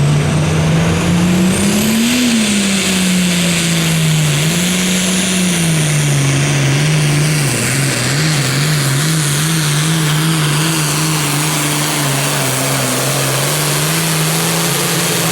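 Super Farm pulling tractor's turbocharged diesel engine running hard under load during a pull. Its pitch climbs about two seconds in, sags and recovers, then wobbles rapidly up and down for a couple of seconds before falling away at the end.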